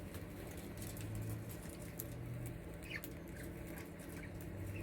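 Budgies pecking at a treat held on a hand: faint, quick clicking and scratching, with a couple of short chirps.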